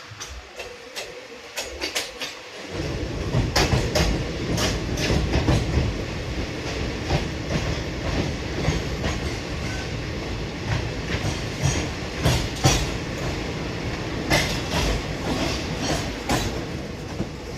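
Passenger train running on the rails, heard from on board, with sharp clacks of the wheels over the rail joints. About three seconds in, a loud, deep rumble sets in suddenly and holds.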